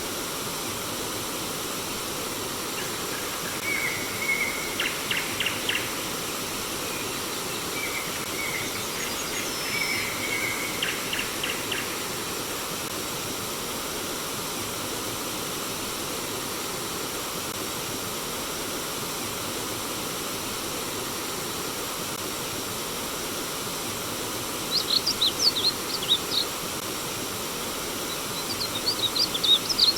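A stream of flowing water rushing steadily, with songbirds singing in short bouts of chirps and trills: two phrases in the first half, then quicker, higher notes near the end.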